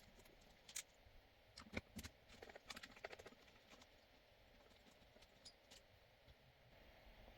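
Faint, irregular light clicks and taps of small hard objects being handled, thickest about two to three seconds in.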